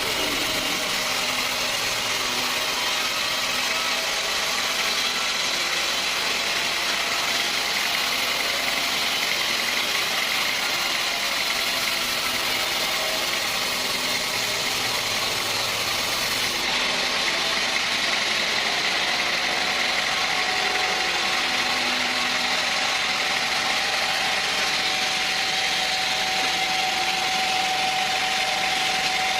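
Sawmill machinery running steadily, an engine-driven hum with a strong, even hiss. About two-thirds of the way through the highest part of the hiss drops away, and a steady mid-pitched tone comes in soon after.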